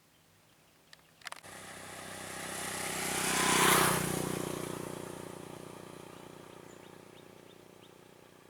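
A motor vehicle's engine passing by: after a couple of clicks it sets in abruptly about a second and a half in, grows louder to a peak a little before the middle, then slowly fades away.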